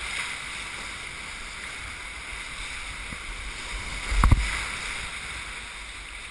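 Whitewater river rushing steadily around a kayak, with one sharp low thump about four seconds in.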